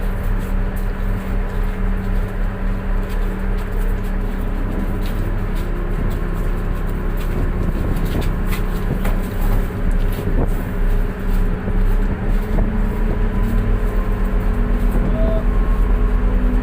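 Tug boat's diesel engine running with an even, fast throb; it grows a little louder and quicker near the end.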